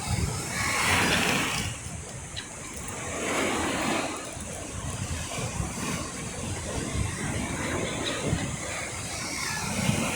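Black Sea waves breaking on the shore, the rush of surf swelling and fading every few seconds, with wind rumbling on the microphone.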